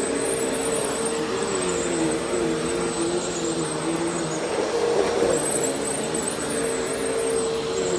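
Vacuum cleaner running steadily, its motor hum wavering slightly in pitch over a steady rush of air.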